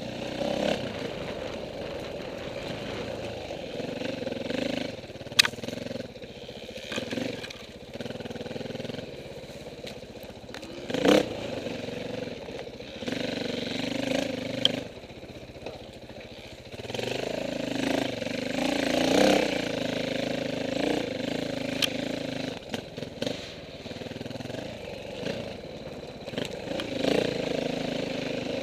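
KTM 450 four-stroke dirt bike engine running and revving up and down, as the bike is ridden over rough trail. Sharp knocks are heard a few times, the loudest about 11 seconds in.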